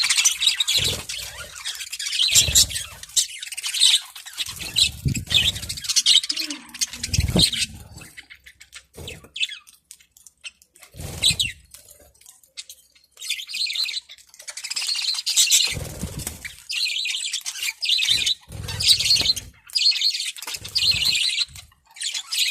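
A flock of budgerigars chattering and chirping in bouts, with a quieter lull partway through. Low thuds come now and then.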